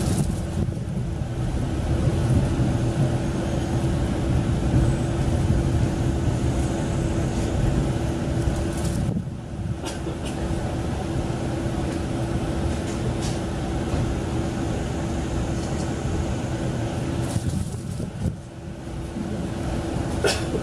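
Diesel railcar engine of a KiHa 40-type railcar running steadily, a low drone with a constant hum; the sound dips briefly twice.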